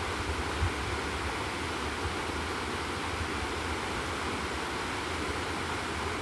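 Steady rushing of a flood-swollen river.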